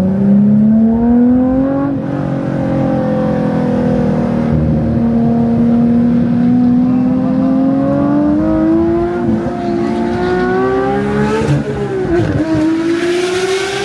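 High-revving sports car engine running under throttle, its note climbing slowly in pitch, with a brief dip and recovery near the end. It has a high-pitched, F1-style sound.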